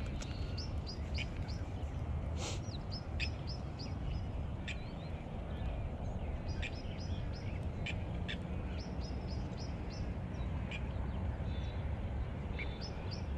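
Small birds chirping in repeated runs of short high notes, with a few sharp ticks, over a steady low background rumble.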